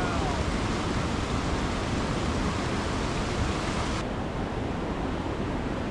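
Steady rushing of fast-flowing water. About four seconds in it abruptly turns duller.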